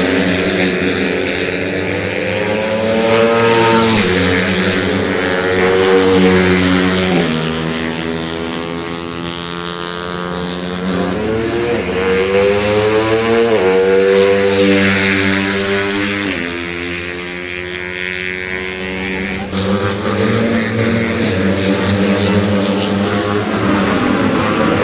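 Cub Prix racing underbone motorcycles passing at full throttle, their high-revving engines climbing in pitch through the gears and dropping again several times over.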